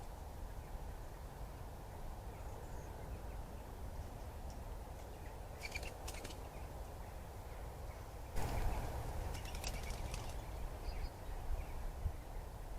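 Trail camera's own recording of the woodland: a steady low hiss and rumble, a few faint bird chirps about six seconds in, and a louder rustling about eight seconds in that carries on more quietly to the end.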